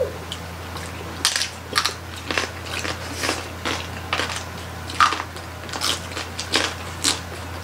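Close-miked chewing and mouth sounds of people eating roast pig (lechon) by hand: irregular crunchy clicks and wet smacks, one or two a second.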